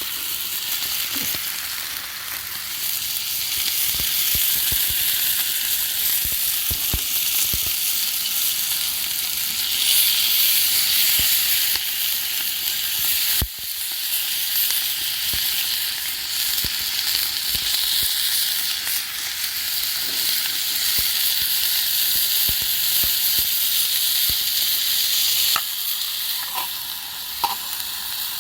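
Food frying in a pan over a campfire: a steady high sizzle with scattered small pops and crackles, and one sharp knock about halfway through.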